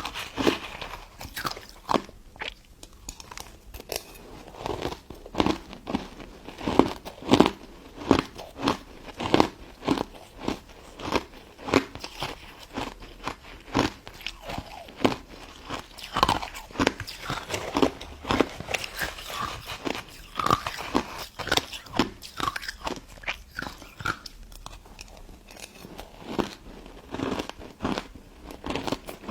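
Crunching and chewing of a pink crystal snow ice dessert close to the microphone: a steady run of crisp, crackling bites and chews, some louder than others.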